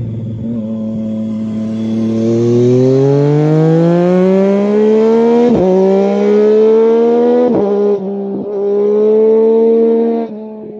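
Triumph Street Triple 765 RS three-cylinder engine through a Scorpion Serket Taper carbon silencer with the dB killer removed, accelerating hard. The pitch climbs and drops sharply at two upshifts, about five and a half and seven and a half seconds in, then pulls again until the throttle closes about ten seconds in and the note falls away.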